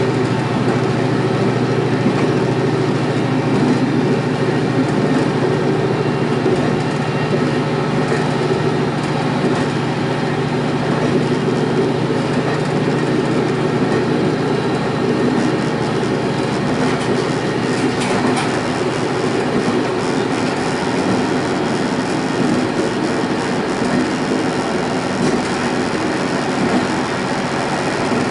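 Diesel railcar running along the line, heard from inside: a steady engine drone over wheel-on-rail running noise, with a single sharp click about eighteen seconds in.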